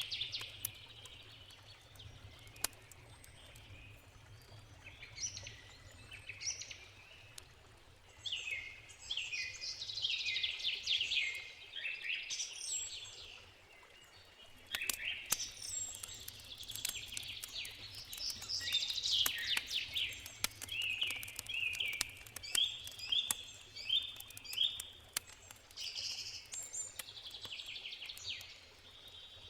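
Small birds singing in repeated quick trilled phrases whose notes sweep down in pitch, over the scattered sharp pops and crackles of a wood campfire and a steady low rush of a river.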